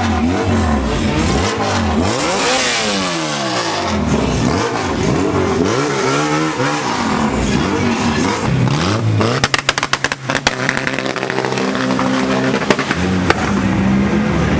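Car engines revving, their pitch sweeping up and down repeatedly, then running steadier, with a quick run of sharp cracks about ten seconds in.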